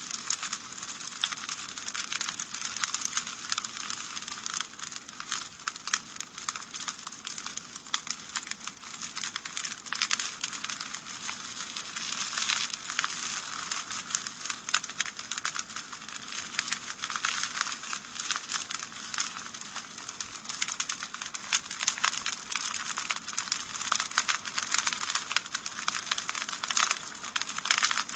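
Wood fire crackling in a fireplace: a dense, irregular run of sharp pops and snaps over a steady hiss.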